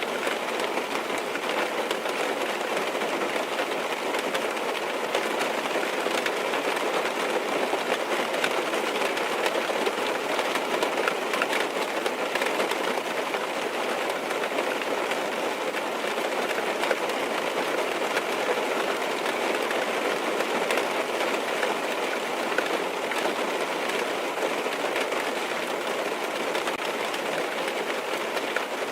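Steady rain pattering on a car's roof and windows, heard from inside the car as a dense, even hiss of many small drop ticks.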